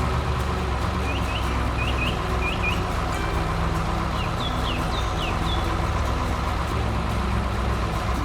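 A heavy construction vehicle's engine running steadily, with two short runs of bird chirps over it.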